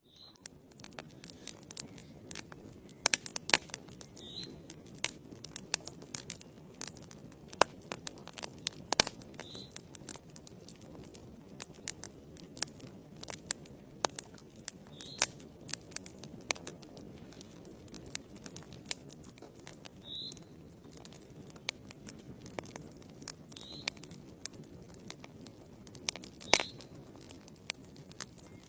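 Logs burning in a fireplace: a steady low rush of flame with frequent sharp crackles and pops, a few much louder than the rest.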